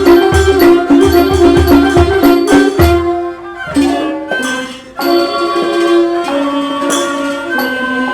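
Thai classical ensemble playing a hom rong (overture), melody over steady low drum strokes. About three seconds in, the drums drop out and the music thins and quiets for a couple of seconds. The melody picks up again about five seconds in.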